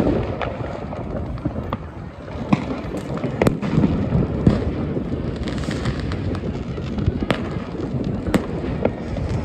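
Many consumer New Year's Eve fireworks going off at once: a continuous crackle and rumble of rockets, firework batteries and firecrackers, with scattered sharp bangs every second or so.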